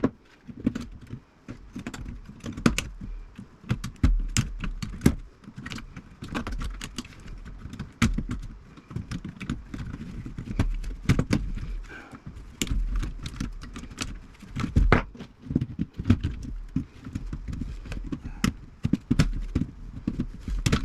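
Irregular clicks, clinks and knocks of hand tools and metal parts as a vintage tube radio chassis is taken apart for scrap, with occasional dull thumps of handling.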